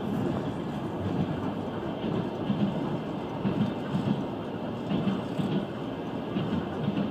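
Passenger train running along the rails, heard from inside the carriage: a steady rumble with repeated low thumps as the wheels pass over the rail joints.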